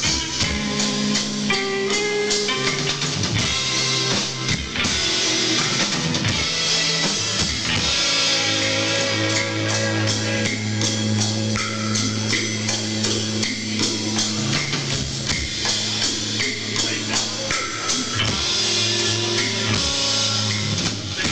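A live rock band playing an instrumental passage: electric guitar, bass guitar and drum kit.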